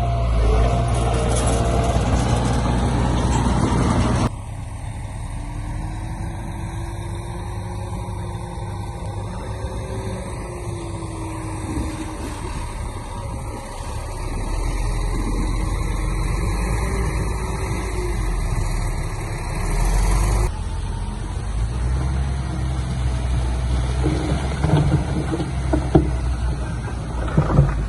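Heavy diesel machinery running steadily, cut together from several clips, with a few sharp knocks and clatter near the end.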